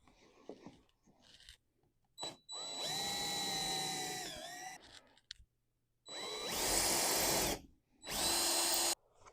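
Handheld power tool running in three short bursts with a steady motor whine, the first winding up in pitch at the start and sagging just before it stops, after some light handling clicks.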